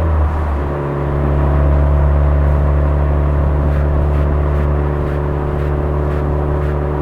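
Suzuki Swift Sport (ZC33S) 1.4-litre turbocharged four-cylinder running through a Fujitsubo aftermarket exhaust while cruising: a loud, steady, low exhaust drone. Its pitch shifts right at the start and settles about half a second in.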